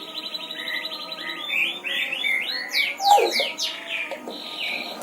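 Pet talking birds, a lory and a hill myna, calling rather than speaking: a buzzy rasping call at the start and again later, with short chirps and a quick run of falling whistles in between.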